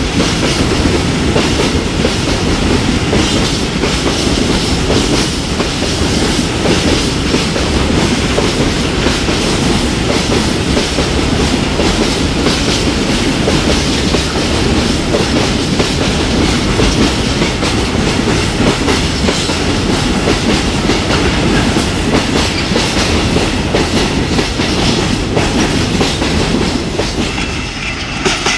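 Open freight wagons of a long freight train rolling past, their wheels clattering over rail joints and switches in a steady clickety-clack.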